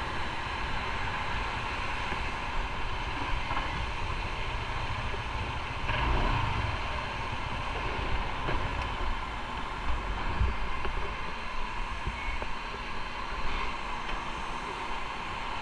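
Motorcycle under way: steady engine and road noise mixed with wind, swelling briefly about six seconds in.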